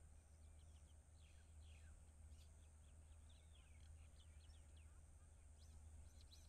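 Near silence: a low steady hum, with faint, scattered bird chirps throughout.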